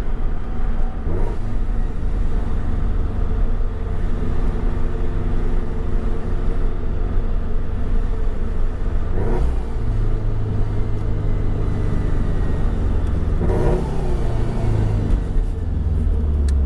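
Subaru-built flat-four boxer engine with a modified, louder exhaust, heard from inside the car: a low, steady rumble while driving. The engine note shifts about nine and a half seconds in and again around fourteen seconds.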